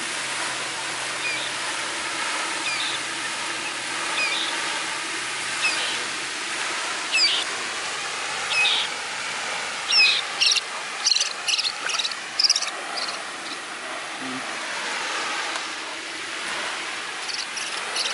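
Short high chirping calls from a small animal, about one every second and a half, then quicker clusters of sharp calls about ten seconds in and again near the end, over the steady rush of flowing water.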